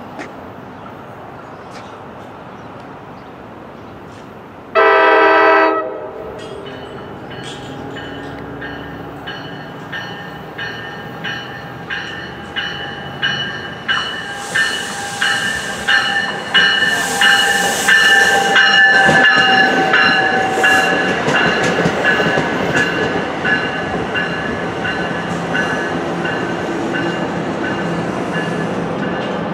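NJ Transit commuter train sounding its horn in one blast about a second long, then rolling in: the wheels click over rail joints in a steady rhythm of about one a second, growing louder, with a steady high hum.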